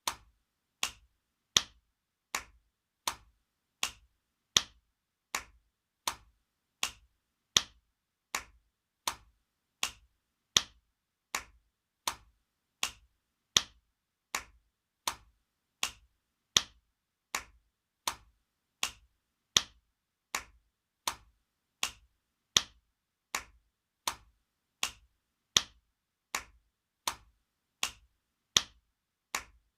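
Spanking sound effect: sharp slaps of a hand on skin, repeating steadily about four every three seconds, some strokes louder than others.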